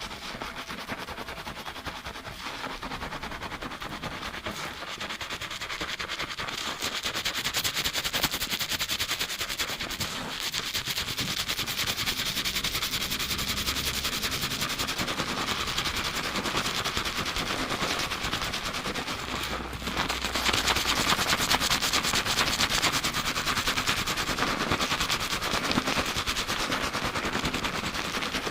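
Fast fingertip scrubbing of a lathered scalp and hair during a shampoo, recorded binaurally close to the head: a dense, rapid crackle of foam and hair, stepping up in loudness about a quarter of the way in and again past the middle.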